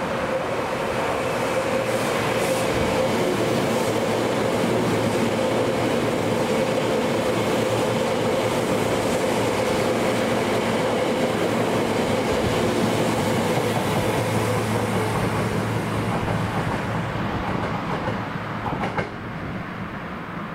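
A train running past close by: a steady rumble of wheels on rail with a humming tone, easing off near the end, with one short click just before it dies down.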